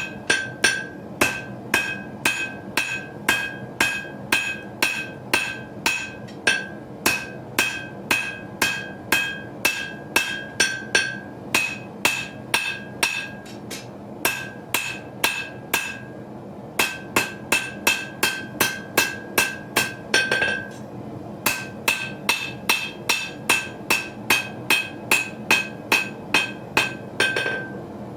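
Hand hammer striking hot steel on an anvil, a steady run of about two to three blows a second with each blow ringing, drawing out the blade of a small knife. The hammering breaks off for about two seconds past the middle, then resumes.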